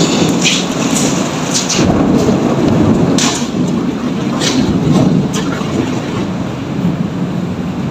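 Heavy rainstorm: a steady low rushing rumble, with a handful of sharp ticks of drops striking close by.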